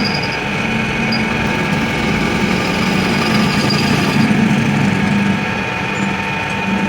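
A workshop machine runs steadily: a constant motor hum with a fixed whine over it.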